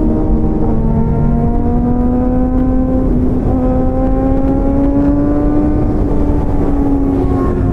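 Motorcycle engine running under way, its pitch climbing steadily, dropping at a gear change about three seconds in, then climbing again before easing off near the end. Heavy wind rumble on the microphone underneath.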